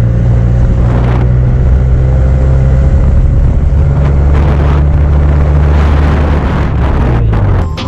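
Benelli TNT 300's parallel-twin engine running at a steady note through a Yoshimura aftermarket exhaust, with gusts of wind on the microphone. The engine note eases off near the end.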